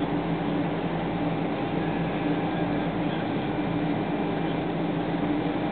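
Steady drone of a Boeing 777-200 airliner: an even hiss with two steady low hum tones, level throughout with no rise in pitch or loudness.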